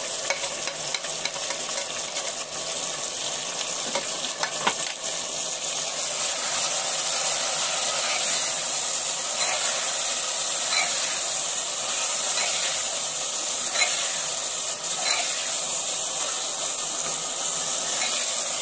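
Chicken, onions and tomatoes sizzling in hot oil in a pressure cooker, with a metal spoon scraping and clicking against the pot as the mixture is stirred.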